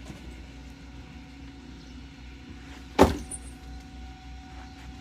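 Ichibata Electric Railway 7000-series railcar's steady low electrical and mechanical hum, with one sharp loud knock about three seconds in, after which a faint steady tone sets in.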